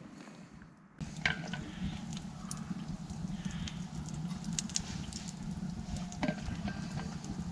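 Campfire burning, with scattered crackles and pops over a steady rushing noise, starting abruptly about a second in.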